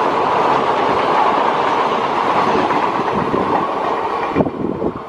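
Passenger train coaches rushing past at speed, a steady loud rumble and clatter of wheels on the rails. Near the end the noise suddenly thins and falls away, with a few separate knocks, as the last coach clears and the train moves off.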